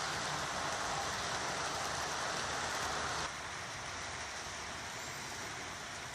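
Steady background hiss with no distinct events, dropping slightly in level about three seconds in.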